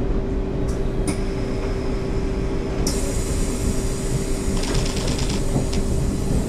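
Passenger rail car running: a steady low rumble with a held hum and a high hiss, and a brief run of rapid even clicks about three-quarters of the way through.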